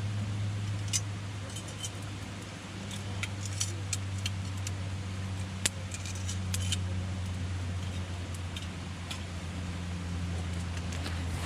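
Wood campfire crackling: irregular sharp pops and snaps of burning wood over a steady low hum.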